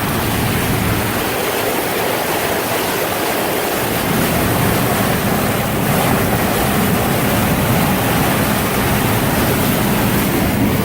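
Floodwater rushing and splashing steadily around a large motorhome driving through deep water, with the vehicle's engine running as a low steady hum underneath.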